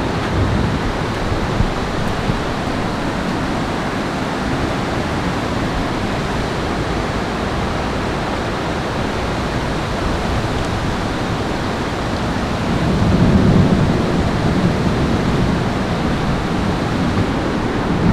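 Steady rushing noise of water, with a louder, deeper swell about thirteen seconds in.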